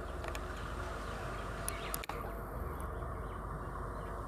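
Faint, steady sound of an approaching electric multiple-unit local train, still some distance off, with a few light clicks.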